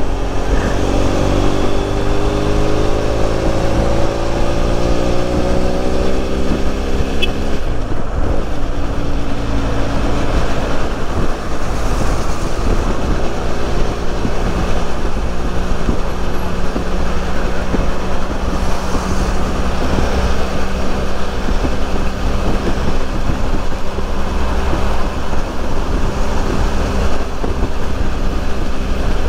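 BMW F800 motorcycle's parallel-twin engine pulling harder for the first six or seven seconds, its pitch rising, then running steadily at cruising speed. Wind rushes over the microphone throughout.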